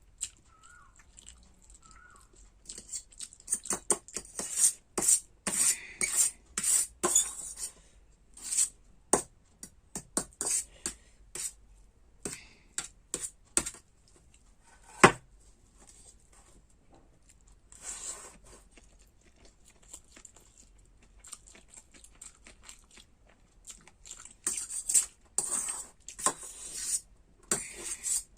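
Close-miked eating of masala Maggi noodles: irregular slurps and chewing with cutlery clicking against a plate or bowl, and one sharp clink about halfway through.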